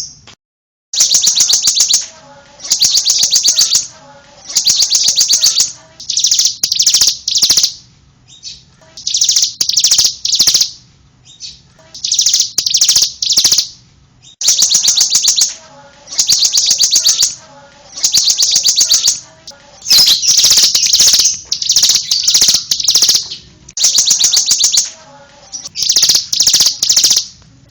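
Bar-winged prinia (ciblek) singing: bursts of very rapid, high chirps, each about a second long, repeated with short pauses between.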